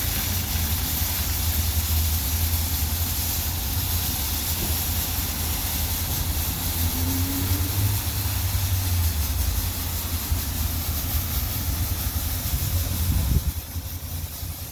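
WashTec SoftCare Pro Classic rollover car wash spraying water over the car: a steady loud hiss of the jets over a low rumble, easing off suddenly about 13 seconds in.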